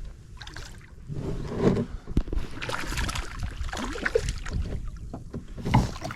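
Water splashing and irregular knocks around a small fishing boat as a hooked leerfish is brought in, with a few sharper knocks, the loudest near the end.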